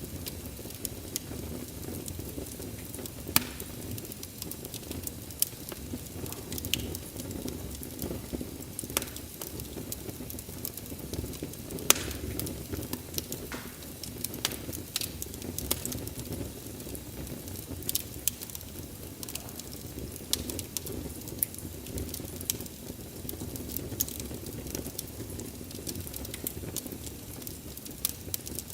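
Wood fire crackling: a steady low rumble of flames with frequent irregular sharp pops and snaps, a few louder ones standing out.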